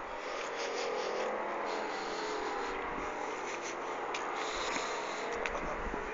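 A steady distant drone: a hiss with a faint hum through it, holding level throughout, from an unidentified source.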